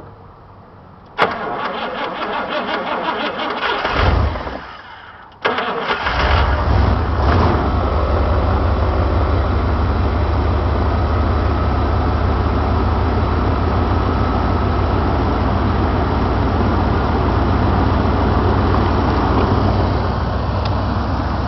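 Chevy 305 small-block V8 cold-started at −23 °C: the starter cranks it for a few seconds, it catches about five seconds in, flares up and then settles into a steady idle. No top-end ticking or knocking is heard, which the owner takes as no lack of lubrication on the cold start.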